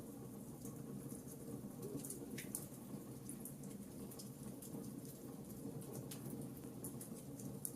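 Fireplace crackling: scattered small pops and snaps over a faint, steady low rush of burning flames.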